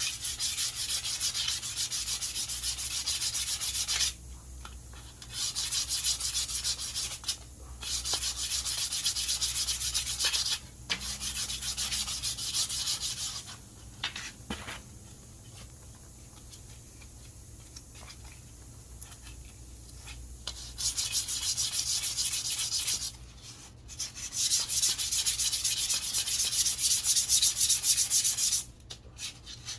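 Sandpaper rubbed back and forth over a wooden walking stick in quick strokes, in runs of a few seconds with short breaks, and a longer pause of about seven seconds midway.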